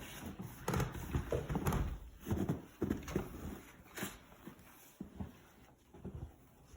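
Irregular knocks, thumps and rustling of a person moving about and handling gear, busiest in the first few seconds and thinning out towards the end.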